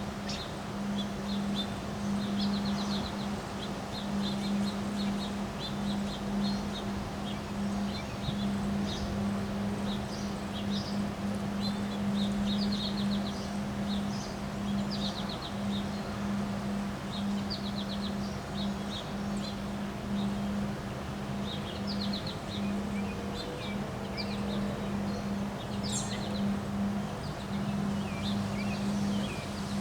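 Wind blowing steadily while small birds chirp in short, repeated trills throughout. A steady low hum runs underneath.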